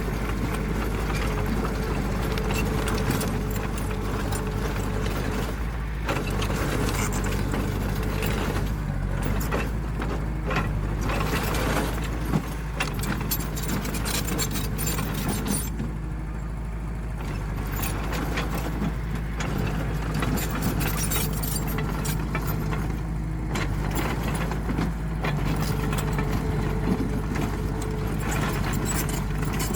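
Diesel engine of heavy earthmoving machinery running steadily, with mechanical rattling over it.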